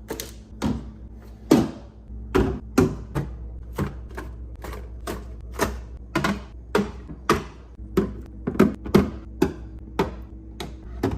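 Items being set down one after another on refrigerator shelves: a quick, irregular run of taps and knocks, about two or three a second, over a low steady hum.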